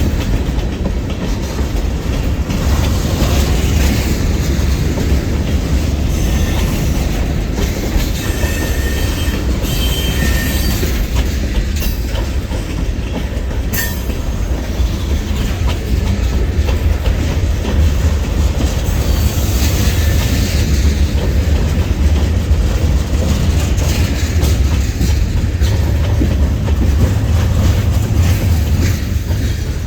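Freight train rolling past: a steady low rumble with wheels clicking over the rail joints. A high wheel squeal comes in briefly a third of the way through and again past the middle.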